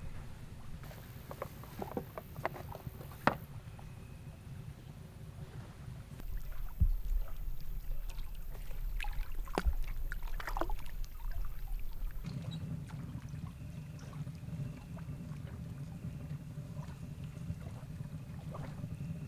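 Low, steady rumble of wind buffeting the microphone, with scattered clicks and knocks. The rumble shifts abruptly twice.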